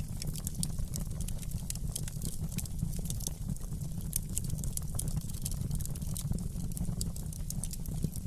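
Wood fire in a fireplace crackling: many small irregular pops and snaps over a low steady rumble.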